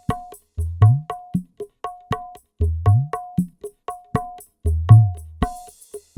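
Dangdut percussion groove of kendang and drum kit: deep bass drum strokes that slide upward in pitch about every two seconds, sharp ringing higher strokes and quick light taps between them, with a cymbal entering near the end.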